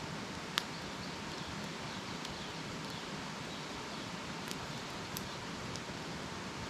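Wood campfire burning: a steady hiss with scattered sharp crackles and pops, the loudest about half a second in and a few smaller ones later.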